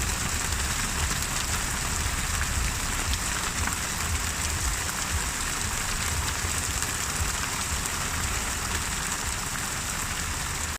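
Steady, gentle rain falling on a surface: an even hiss of many drops with fine scattered drip ticks and a low rumble underneath.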